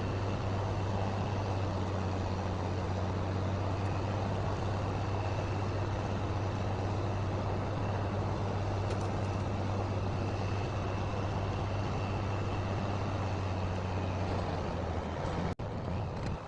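Steady drone of an engine or motor running at constant speed, with a low hum under an even rushing noise. It breaks off abruptly for an instant near the end.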